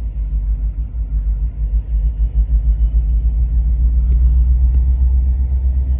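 Low, steady rumble of a slow-moving Union Pacific train passing, growing a little louder about two seconds in.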